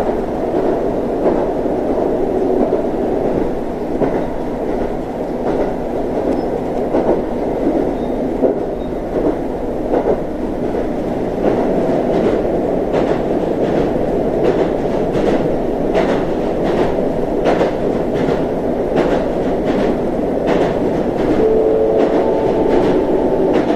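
Onboard running noise of a JR Central KiHa 25 diesel railcar: a steady rumble from the running gear and underfloor machinery, with wheel clicks over rail joints that come thick and fast from about ten seconds in. A brief steady tone sounds near the end.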